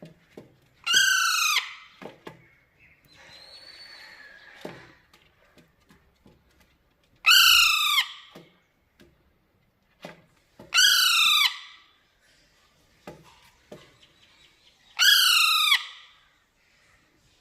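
Parrot giving four loud calls several seconds apart, each under a second long and falling in pitch. Faint clicks and taps come in the gaps between calls.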